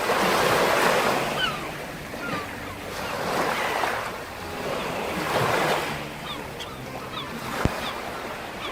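Surf: waves breaking and washing in swells every two to three seconds, with brief high chirps over them and a single sharp click near the end.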